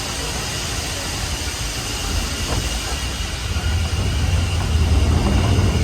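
Standard-gauge steam-hauled train running along the line, heard from on board: a low rumble that grows louder from about two seconds in, with faint squeals from the wheels.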